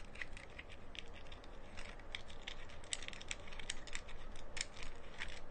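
Small irregular clicks and rattles of a plastic phone-and-gimbal tripod holder being handled and fitted together.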